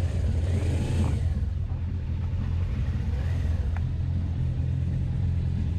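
Suzuki GS500F's parallel-twin engine running steadily at low revs, a continuous low rumble.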